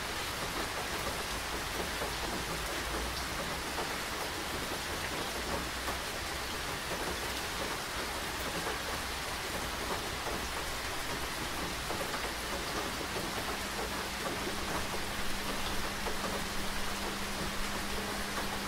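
Steady rain falling, an even hiss of drops on surfaces. About two-thirds of the way through, a faint low steady hum comes in under the rain.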